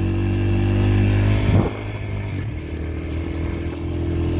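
Yamaha TT-R125LE dirt bike's single-cylinder four-stroke engine running steadily while being ridden. About a second and a half in its note drops and it runs on more quietly.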